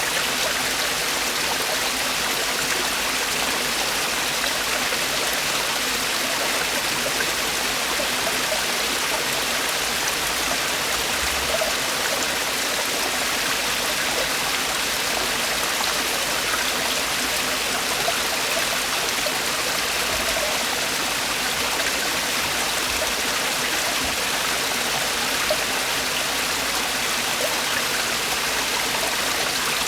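Mountain stream water falling and rushing over rocks in a steady, even splashing.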